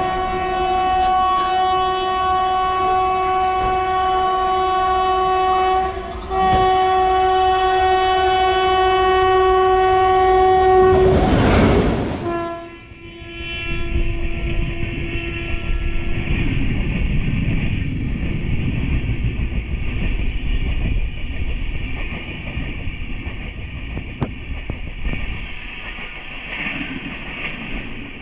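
An Indian Railways express locomotive sounds its horn in two long blasts, then rushes past close by. The horn drops slightly in pitch as the locomotive goes by, then fades. After that come the steady rumble and rhythmic clickety-clack of the coaches' wheels passing at speed.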